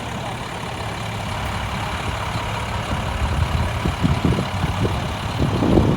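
A vehicle engine idling, a steady low hum, with irregular low rumbles and knocks in the second half.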